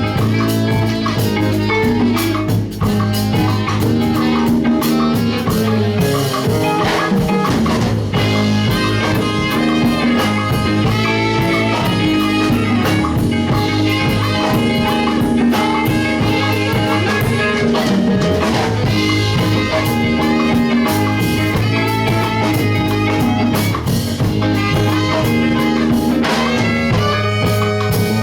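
Live band music with drums and guitar over a steady bass line, playing continuously.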